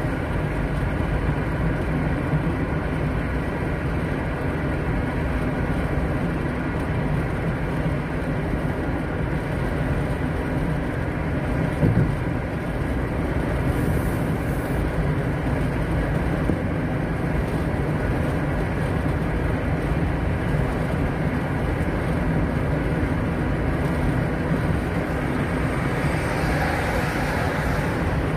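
Steady road and engine noise of a moving car, with a single short knock about twelve seconds in.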